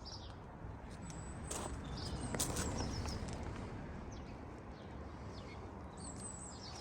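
Outdoor background noise with a few sharp clicks or scuffs a second or two in and faint high bird chirps now and then; no engine running.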